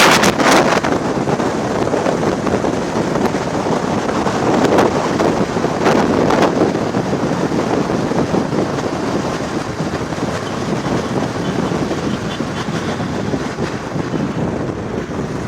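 Wind rushing over the microphone on a moving motorcycle, swelling in a few loud gusts, with the bike's engine running underneath.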